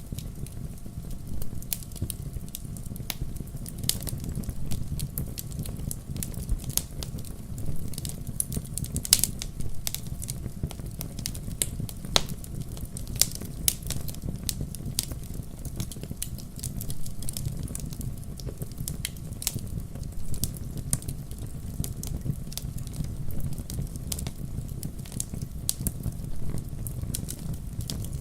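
Wood fire burning in a fireplace, crackling: frequent sharp pops and snaps from the burning logs over a steady low rumble.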